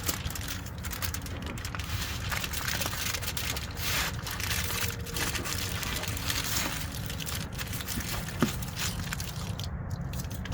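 Heavy-duty aluminium foil crinkling and rustling as it is wrapped around chicken, in dense irregular crackles that come and go, with one sharp click about eight seconds in. A steady low rumble runs underneath.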